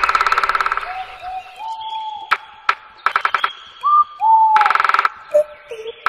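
Birds calling: short whistled notes that rise and then level off, between two harsh, rapid rattling calls and a few sharp clicks.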